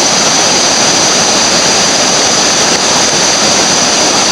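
Steady loud rush of river whitewater rapids.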